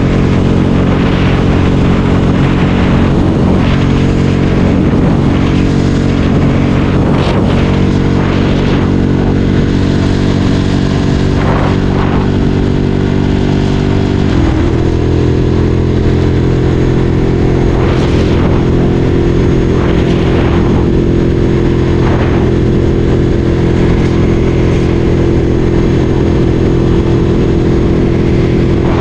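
Ducati Streetfighter 848's L-twin engine running at steady revs while riding, its note shifting slightly about halfway through.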